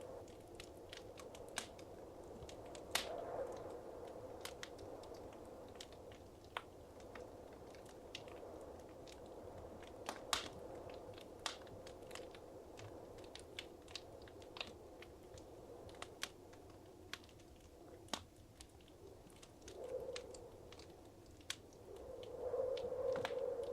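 Wood fire crackling in a fireplace: irregular sharp pops over a steady soft rustle of burning, which swells briefly near the end.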